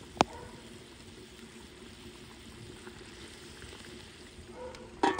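Pot of mango pieces in water boiling steadily, a faint bubbling hiss, with one sharp click just after the start.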